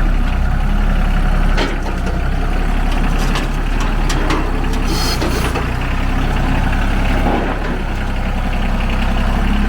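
Small three-cylinder diesel engine of a Ford 1520 compact tractor running steadily as the tractor is driven up onto a trailer. A clank comes about a second and a half in, and a short hiss about halfway through.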